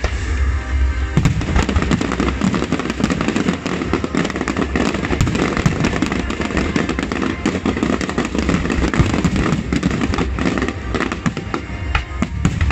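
Aerial fireworks shells bursting in a dense barrage, with many overlapping bangs and crackles that thicken about a second in. Music plays underneath.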